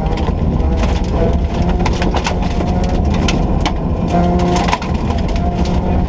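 Ford Ka rally car's engine running hard at stage speed, its pitch rising and falling with the throttle, while stones and gravel crackle and ping against the car in quick, irregular clicks.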